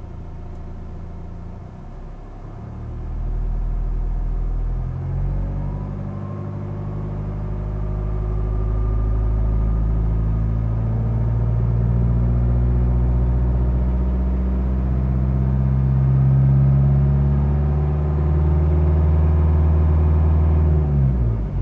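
Renault Laguna II 2.0 dCi turbodiesel engine revved on a stationary car. The revs climb slowly, hold, then drop quickly near the end. A faint turbocharger whistle rises and falls with the revs, which the owner fears means the turbo is failing.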